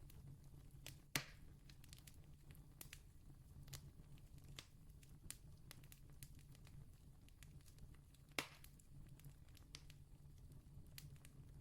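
Campfire burning faintly, with sparse crackles and two louder pops, one about a second in and one past the middle. A low steady hum runs underneath.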